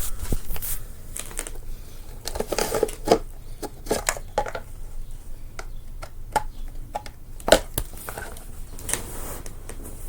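Irregular light clicks, taps and short rustles, with the loudest cluster about two and a half seconds in and a sharp knock about seven and a half seconds in.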